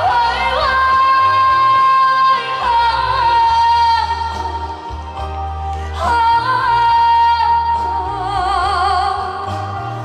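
A woman singing a slow song live over a band accompaniment with a steady bass line, holding long notes that slide between pitches, with a wavering vibrato on the held note near the end.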